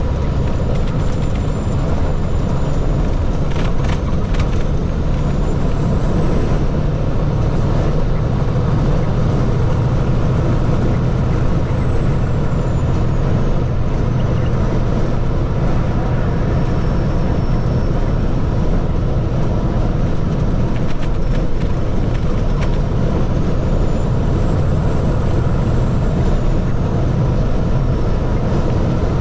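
Water truck running on the road: a steady engine hum and road noise, with a faint high whine that rises and falls a few times.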